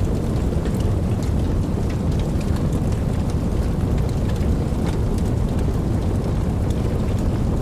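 Steady rain with a deep, even low rumble under it and scattered sharp drop taps, the sound of a rainstorm with distant thunder.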